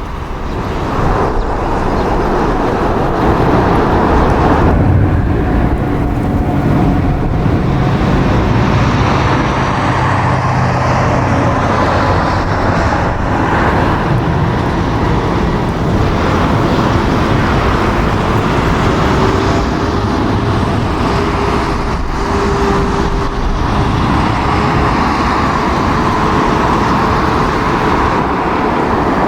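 Steady roar of jet airliners around the runway, mixed with strong wind, with faint engine whines drifting slightly in pitch now and then.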